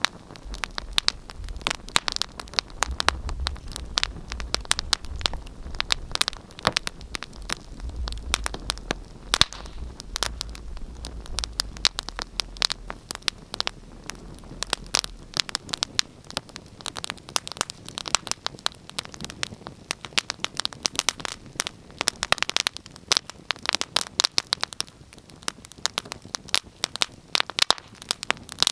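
Wood fire in a fireplace crackling, with dense irregular pops and snaps over a soft hiss. A low rumble sits under the crackling for about the first half and then fades out.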